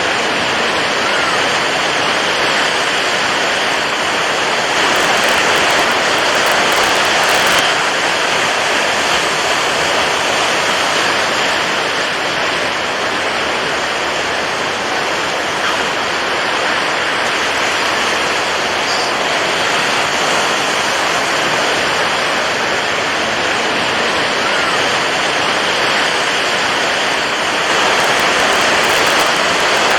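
Steady rushing water, an even hiss that swells slightly about five seconds in and again near the end.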